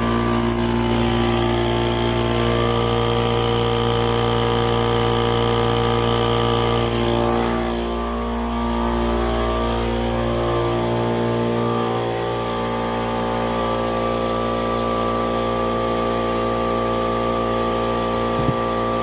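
Kobalt air compressor's motor and pump running steadily, with a constant humming drone. It is running again after a new start capacitor cured its failure to start.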